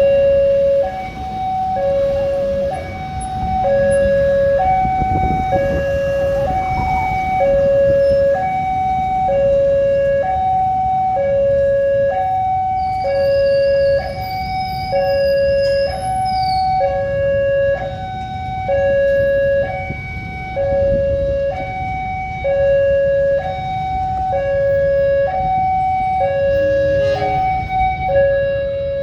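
Level-crossing warning alarm sounding a steady two-tone hi-lo call, a lower and a higher tone alternating about once a second each, the signal that a train is approaching and the barriers are closing. Rumbling traffic noise underneath.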